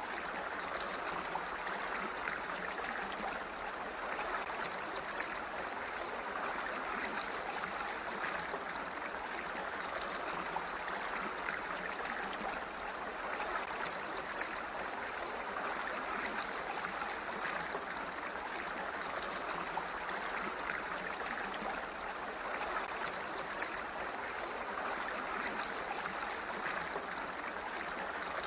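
Water flowing in a steady, unbroken rush that runs on without pause.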